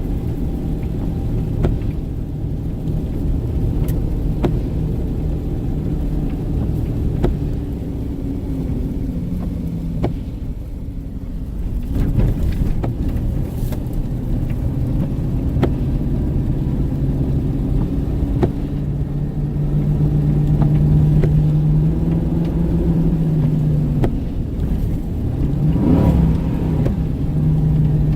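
A car driving: engine and road noise run steadily, the engine note shifting in pitch every few seconds, with scattered light clicks and a short swooping tone near the end.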